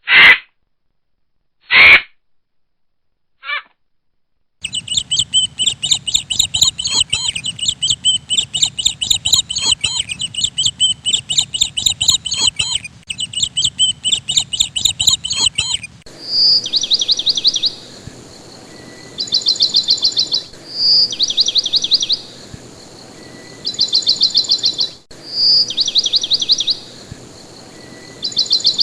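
Birdsong from several different birds in sequence: first a few short separate calls, then a long, busy chattering song, then a different bird repeating a short clear note followed by a fast trill about every four seconds.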